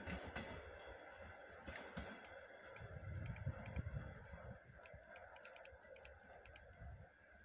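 Electric commuter train approaching slowly: a faint low rumble with scattered light clicks.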